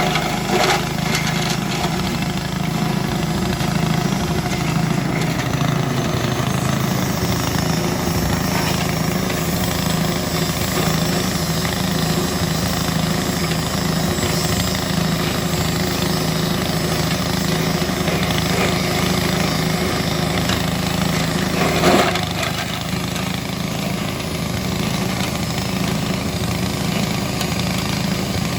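Engine-driven grass chopper running steadily, with a brief louder burst about 22 seconds in.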